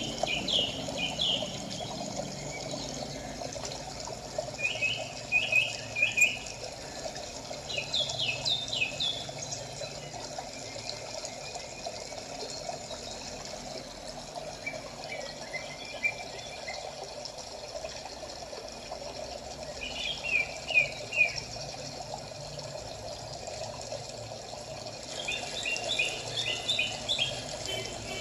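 Small birds chirping in quick runs of three or four notes every few seconds, over a steady rushing background.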